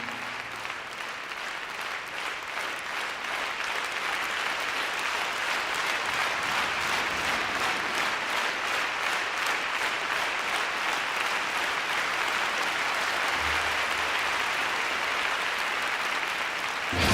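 Large audience applauding, swelling over the first few seconds and then holding steady.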